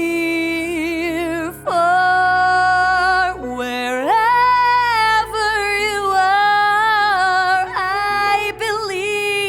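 A woman's voice singing a slow ballad, holding long notes with vibrato and moving up to a higher pitch about two seconds in and again about four seconds in.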